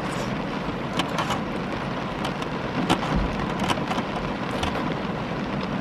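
Rain pattering on the car's roof and windows, heard from inside the car: a steady hiss with scattered sharper ticks of individual drops.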